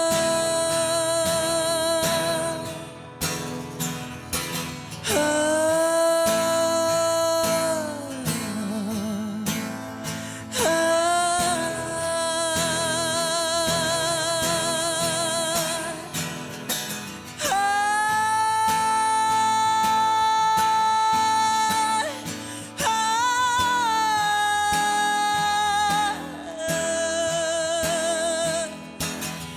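Acoustic folk performance: a singer holds long notes with vibrato, each lasting several seconds, with no words the recogniser could catch. Acoustic guitar plays underneath.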